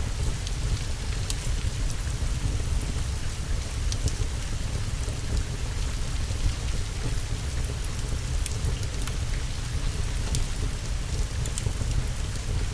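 Steady rain with a continuous low rumble underneath, and scattered sharp crackles and pops from a wood fire burning in a fireplace.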